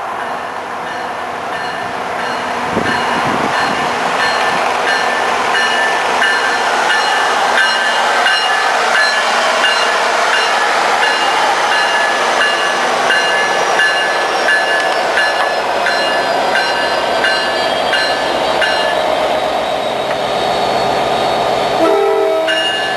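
An NJ Transit passenger train passing close by: a steady rumble and rush that builds over the first few seconds and then holds, with a run of regular clicks from the wheels.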